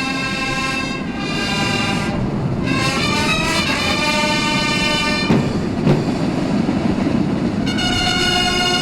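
Military brass band playing long held chords that change every second or two, over a continuous low rumble of drums.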